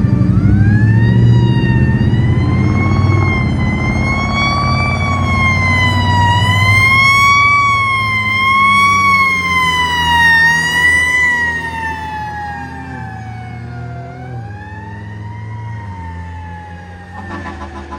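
Fire truck siren wailing over the truck's engine rumble, its pitch slowly rising and falling; from about eleven seconds in it slides lower and fades as the truck goes by.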